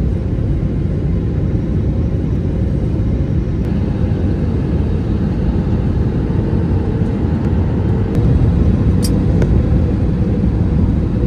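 Steady low rumble of a moving vehicle, with a faint steady hum over it and a brief tick about nine seconds in.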